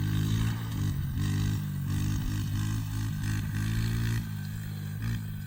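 Dirt bike engine running at low revs, its pitch wavering up and down as the throttle is worked.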